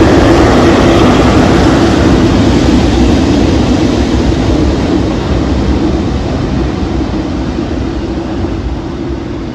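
Boeing 747 freighter's four jet engines at takeoff power, a loud steady rumble with a low hum that fades gradually as the aircraft climbs away.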